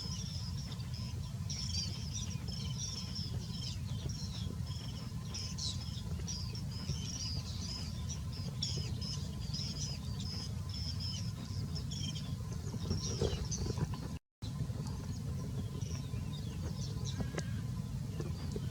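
Small birds chirping: a dense run of short, high chirps that thins out after about thirteen seconds, over a steady low rumble. The sound cuts out completely for a moment about fourteen seconds in.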